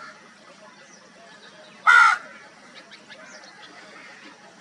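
A crow gives a single loud, harsh caw about two seconds in.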